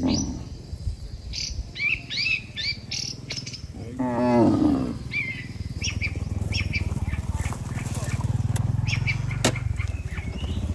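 Cattle mooing, with one drawn-out moo about four seconds in, while small birds chirp repeatedly.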